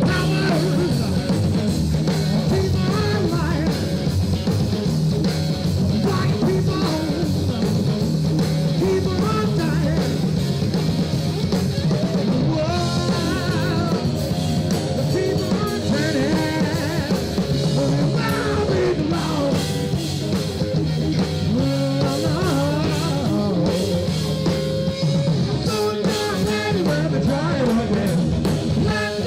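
Live rock band playing: drum kit, electric guitar and bass, with singing through the band's sound system.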